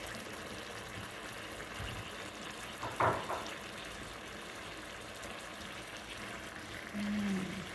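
Chicken and canned shiitake mushrooms in their juice cooking in a pan, a steady sizzling hiss, with a brief louder stirring or pan sound about three seconds in.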